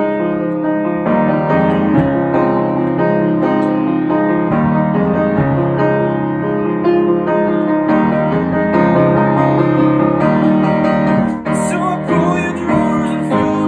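Piano playing sustained chords in an instrumental passage between sung verses of a song.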